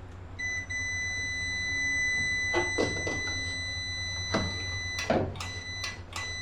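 A steady high electronic beep tone that sounds almost continuously, breaks off briefly about four and a half seconds in, then returns with short gaps, over a low hum and a few knocks.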